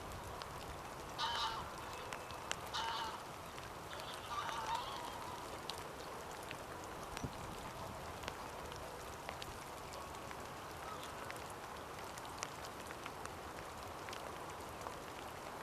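Wintering waterfowl at a wetland calling: three short calls in the first five seconds, then a steady hiss with scattered faint ticks.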